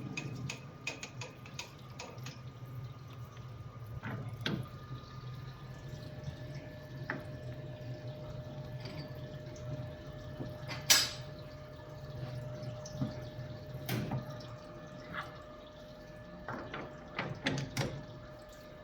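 Steady low machine hum in a workshop, with scattered light metallic clicks and taps and one sharp clink about eleven seconds in.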